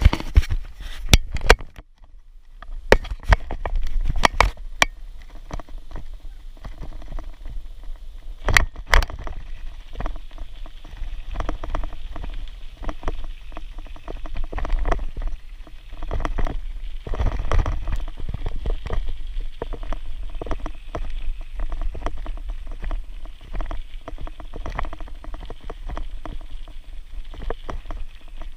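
Bicycle being ridden on a trail: sharp knocks and rattles in the first several seconds, then a continuous crackling rumble of tyres and frame over the ground.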